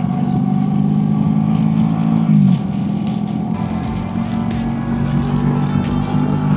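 Motorcycle engine running under way, its pitch dropping about two and a half seconds in and then holding steady.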